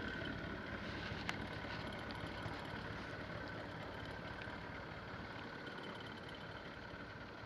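A motor running steadily with a faint high whine, and one sharp click about a second in.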